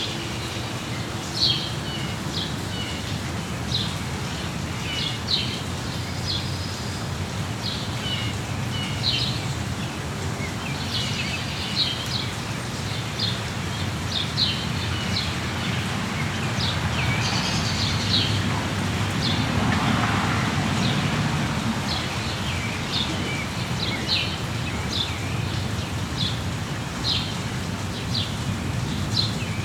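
Songbirds chirping over and over, short high calls scattered throughout, over a steady hiss of falling rain. The noise swells for a few seconds about two-thirds of the way through.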